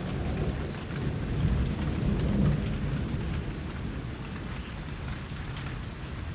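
Steady rain falling, with fine drop patter over a low rumble that swells a little about two seconds in.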